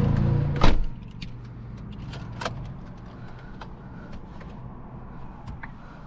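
Tuned Volkswagen Golf R's 2.0-litre turbocharged four-cylinder running at idle. A sharp clack comes under a second in, after which the engine is much quieter, with scattered small clicks.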